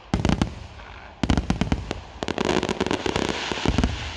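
Fireworks going off: a quick cluster of sharp bangs, then a dense run of rapid crackling bangs from about a second in, fading near the end.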